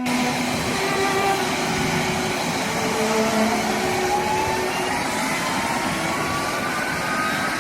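Jet engines running with a steady roar and a whine that rises slowly in pitch through the second half, like engines spooling up.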